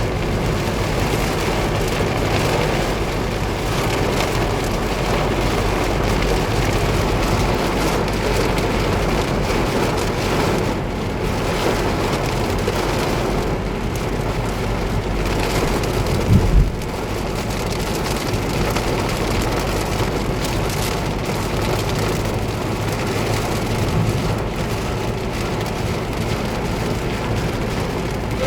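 Heavy rain drumming steadily on a moving car's body and windscreen, over a steady low rumble. A brief low thump comes a little past halfway.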